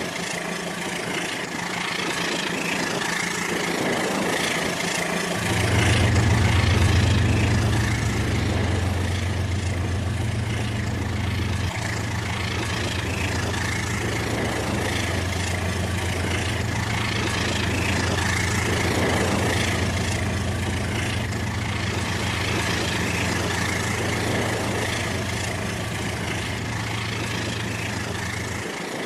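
Rail King toy train running on its track, its small electric motor and gears giving a steady whine over a rattling noise. A deep hum comes in about five seconds in and cuts off just before the end.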